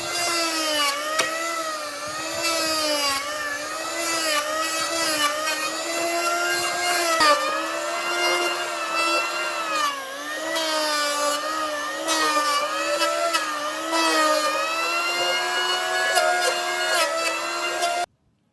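Electric power tool running as it works wood, its whine dipping in pitch and recovering again and again as it loads up in the cut, with scattered knocks. It cuts off suddenly near the end.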